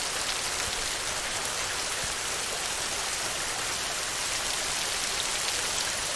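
Steady heavy rain on a tin roof: a dense, even hiss of many tiny drop ticks.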